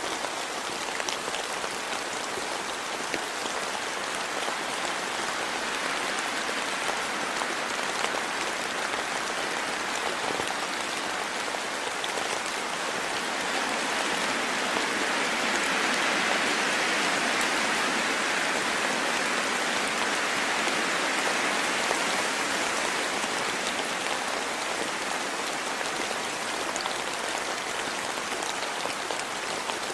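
Steady rain falling in a forest, a little heavier for several seconds in the middle.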